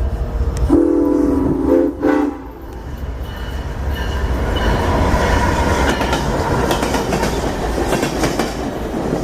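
A locomotive sounds one blast of several notes at once, lasting about a second and a half. It is followed by a train rolling by, with a rumble and rail clatter that grow louder.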